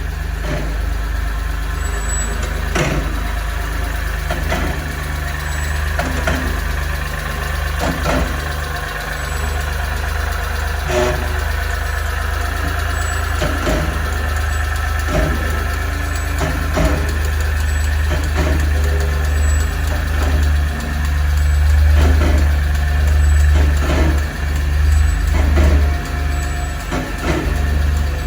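1993 Suzuki Carry dump truck's small three-cylinder engine running steadily at idle. Scattered short clicks or knocks are heard over it, and it gets louder and uneven for a few seconds about two-thirds of the way in.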